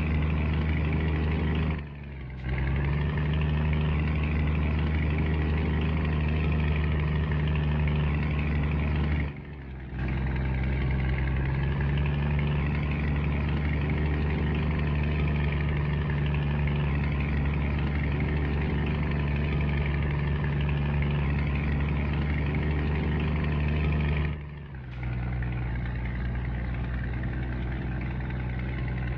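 Scania truck's diesel engine running steadily under way, its sound cutting out briefly three times as the throttle is lifted for gear changes, then picking up again at a slightly different pitch.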